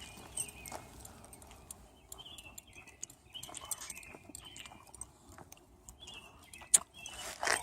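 Birds chirping: short, slightly falling calls repeated every half second or so, with light scattered clicks and one sharp click near the end.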